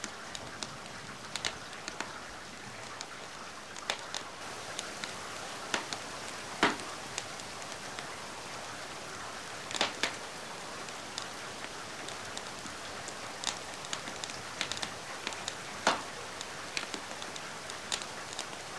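Steady rain hiss mixed with a wood fire crackling, its sharp pops scattered irregularly; the loudest pops come about six and a half, ten and sixteen seconds in.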